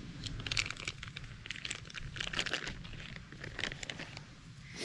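Irregular crinkling and rustling of wrapping being handled, in quick uneven bursts.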